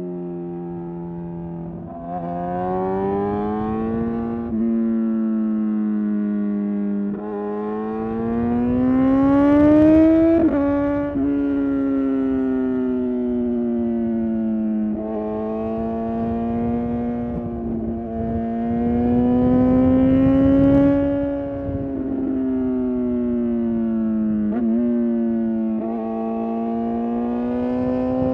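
Suzuki GSX-R750 inline-four engine under way, its pitch climbing and falling with the throttle, with sudden steps in pitch at several gear changes.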